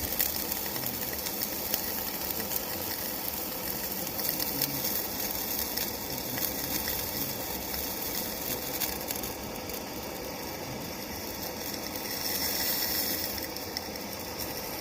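Hand-held propane torch flame hissing steadily as it heats a copper water line, with faint crackles; water from a leaking inlet valve keeps the joint from getting hot enough to solder.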